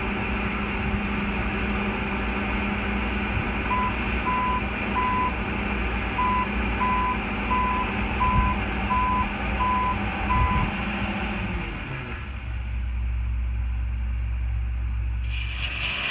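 Truck engine running steadily, with a reversing alarm beeping about ten times at an even pace through the middle. Later the engine sound drops to a deep low rumble, and a hiss starts near the end.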